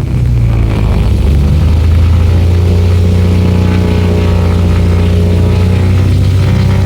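Propeller aircraft engines running with a loud, steady low drone. The drone shifts in pitch right at the start, then holds steady.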